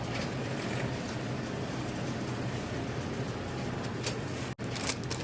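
Steady low hum of an idling truck engine. It cuts out for an instant near the end, followed by a few short clicks.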